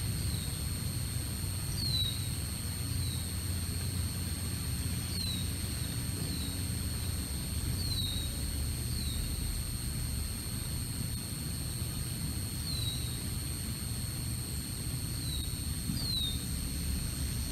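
A small bird calling with short falling chirps, one every second or so, over a steady low rumble and a faint constant high-pitched whine from the nest camera's microphone.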